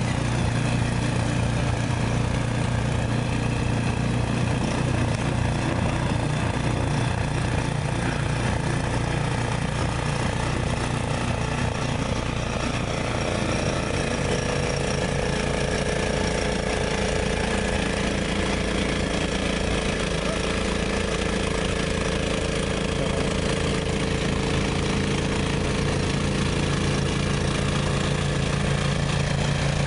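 An engine running steadily. Its note shifts slightly higher about 13 seconds in.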